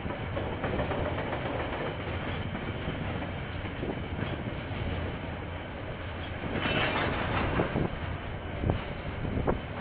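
KiwiRail freight wagons rolling past, a steady rumble of wheels on rail with clickety-clack over the rail joints. The clatter grows louder about seven seconds in, and two sharp clanks come near the end.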